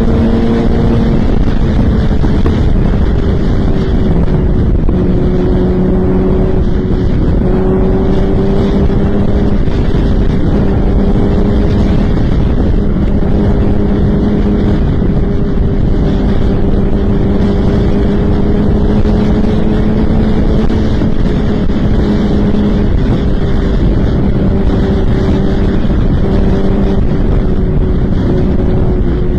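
Motorcycle engine running at a steady speed with heavy wind rush on the microphone, its pitch holding nearly level.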